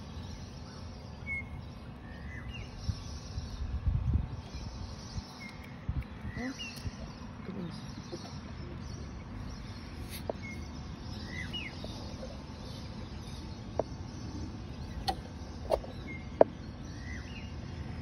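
Birds giving short, repeated chirps over a steady outdoor background hum, with a low rumble about four seconds in and a few sharp clicks near the end.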